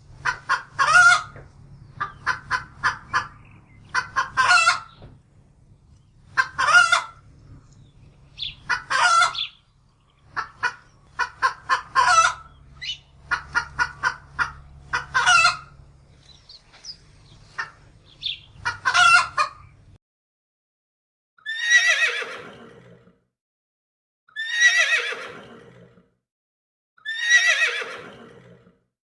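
Chickens clucking in quick runs of short notes, with longer calls between, over a low steady hum. Then a horse whinnies four times, about every three seconds, each whinny falling in pitch.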